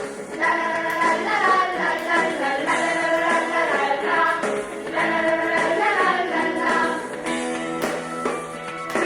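Upbeat Korean children's worship song: voices singing together over an accompaniment track with a steady beat.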